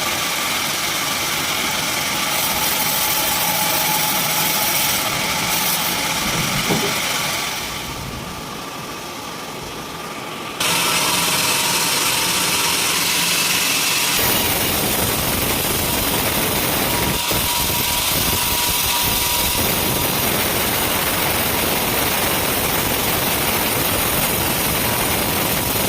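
Sawmill machinery running, a steady engine-driven noise. It drops back about 8 seconds in, then returns louder and more abruptly about 11 seconds in, with a fuller, deeper noise from about 14 seconds on.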